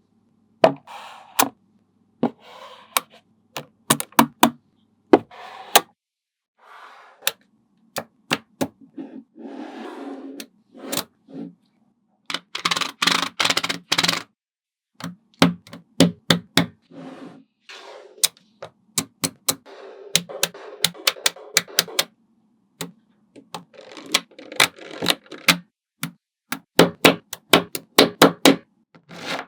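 Small neodymium magnet balls snapping together in a long series of sharp clicks, with two stretches of denser rattling clatter in the middle.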